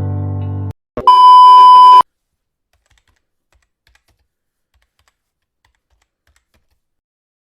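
A held music chord cuts off, then a single loud electronic beep at one steady pitch sounds for about a second and stops abruptly.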